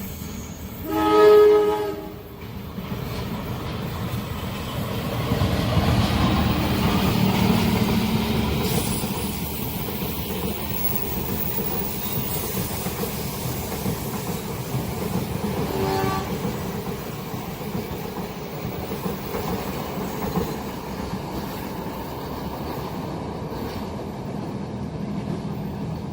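Train horn blowing once for about a second, the loudest sound, then a long train passing with a steady running noise that swells for a few seconds and keeps on. A second, shorter horn blast comes about 16 seconds in.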